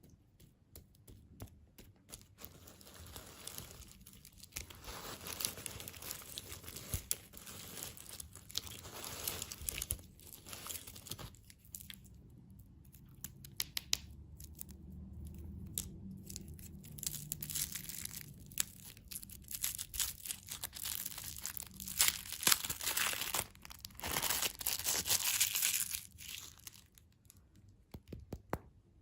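Plastic candy wrappers being crinkled and torn open by hand close to the microphone, in irregular crackly rustles and clicks that grow loudest about three-quarters of the way through.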